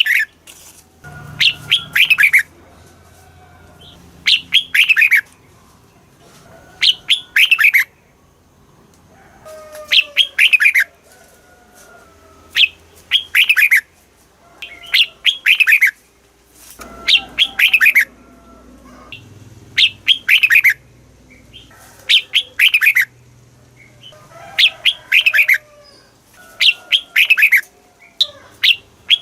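Red-whiskered bulbul singing, the phrased chào mào song that keepers play to rouse caged bulbuls. A short phrase of quick, falling whistled notes repeats about every two to three seconds, loud and clear.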